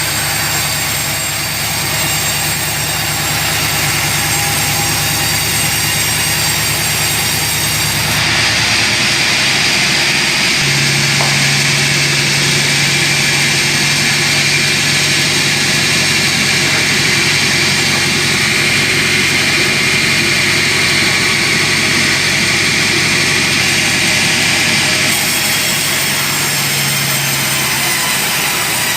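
Sawmill machinery running steadily. From about eight seconds in until a few seconds before the end its tone shifts, then it settles back.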